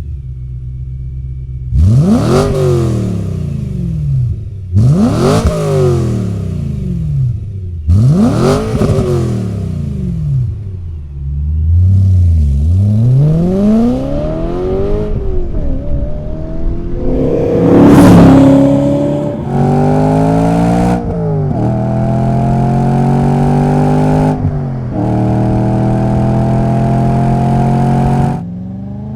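BMW E9X M3 V8 through a Borla cat-back exhaust, first revved sharply three times in quick rise-and-fall blips. Then it accelerates hard, the pitch climbing and stepping down again at each gear change several times, loudest partway through the run.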